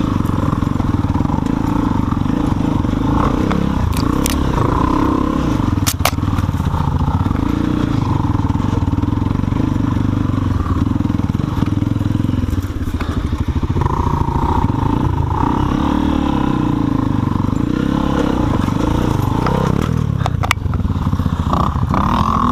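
Guerrero GXR250 single-cylinder four-stroke dirt bike engine pulling at low speed along a rough trail, its revs rising and falling as the throttle is worked on and off. A few sharp knocks come through, about four, six and twenty seconds in.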